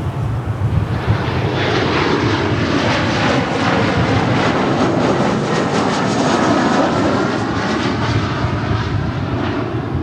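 Jet airliner's engines passing close by: a roar that builds for the first couple of seconds, is loudest a little past the middle with a falling whine in it, then eases off near the end. Wind buffets the microphone underneath.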